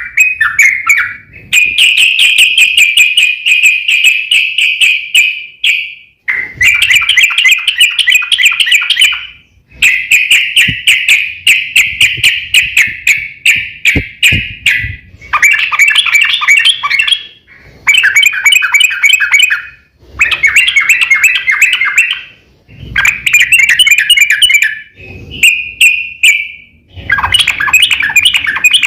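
Yellow-vented bulbul (trucukan) singing in the fast rolling 'ropel' style: rapid chattering trills delivered in repeated phrases of one to four seconds with short breaks between them.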